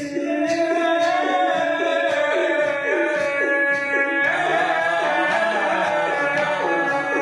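Husseini mourning vocal music: wordless male voices holding long 'ah' tones, layered over a short sighing vocal figure repeated about twice a second.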